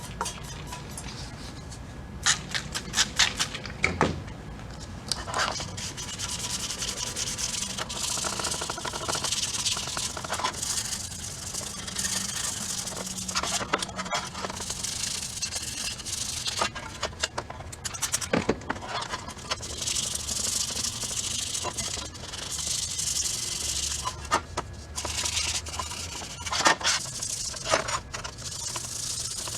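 Sandpaper rubbing by hand, scratchy strokes coming in spells of a few seconds, with a few sharp clicks about two to four seconds in.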